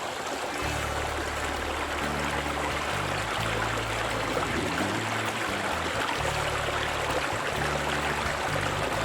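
A stream's steady rushing flow, with soft low sustained music notes changing every second or so underneath.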